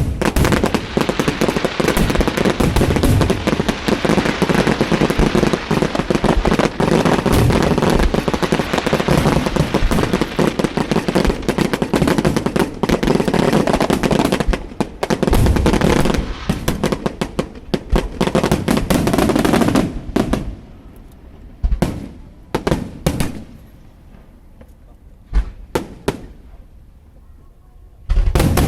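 Aerial fireworks: a dense barrage of rapid bangs and crackling for about twenty seconds, thinning to a few scattered single bangs, then another loud burst near the end.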